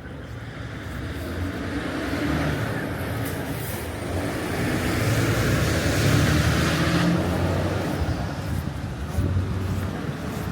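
A motor vehicle driving past on a wet street: its tyres hiss on the wet road over a low engine hum, growing louder to a peak a little past halfway, then easing off.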